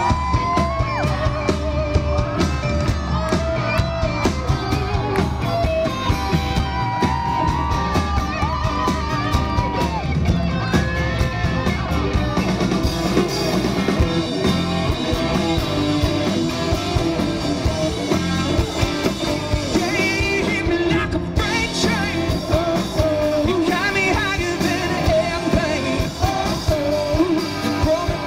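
Live rock band playing, with a male lead singer over guitar and a steady beat.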